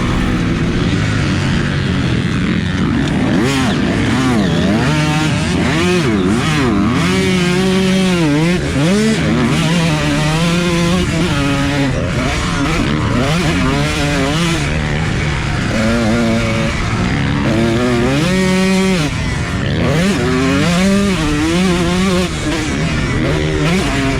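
Motocross dirt bike engine revving hard and easing off over and over, its pitch sweeping up and dropping back every second or two as the rider works the throttle and gears.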